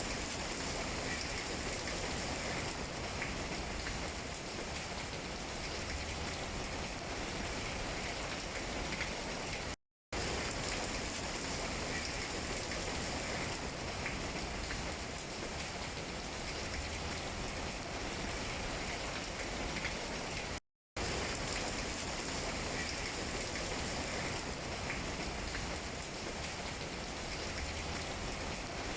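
Steady rain falling on tree leaves, an even hiss of drops, cut by a brief moment of total silence about ten seconds in and again about twenty-one seconds in.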